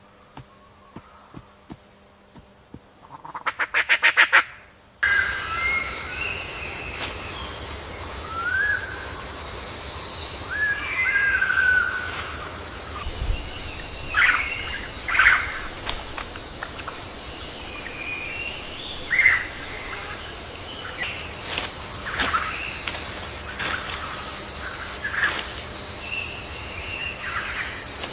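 Rainforest-style ambience: scattered short bird chirps and whistled calls over a steady high-pitched whine. The ambience starts abruptly about five seconds in, just after a brief fast rattling call.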